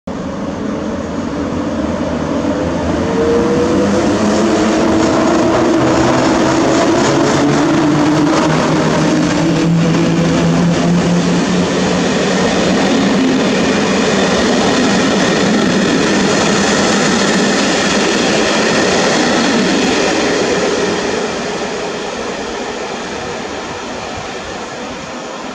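A passenger train of Czech Railways coaches passing along a station platform, its wheels running on the rails. The sound builds over the first few seconds, holds steady, then fades away near the end.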